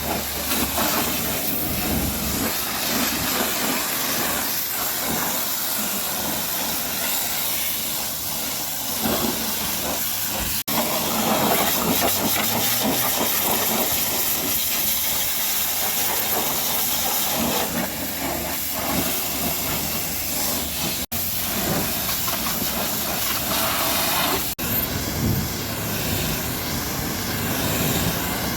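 High-pressure water spray hissing steadily against the truck, broken by a few sudden short cuts.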